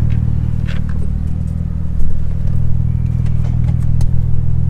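Car engine idling with a steady low rumble, with a brief louder burst about two seconds in.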